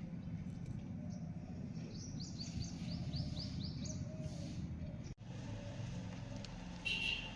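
Small bird chirping: a quick run of about seven short, falling chirps in the middle, then a single louder call near the end, over a steady low background rumble.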